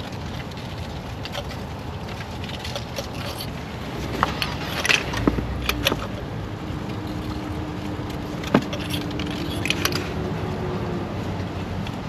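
Light metallic clicks and clinks of new spark plugs and hand tools being handled as the plugs are started by hand into the cylinder head, over steady background noise. A low steady hum comes in about five seconds in and fades near the end.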